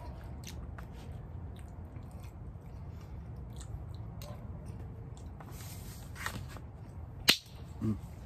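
A man chewing a spoonful of fried rice, with small scattered mouth clicks over a steady low rumble. A single sharp click about seven seconds in.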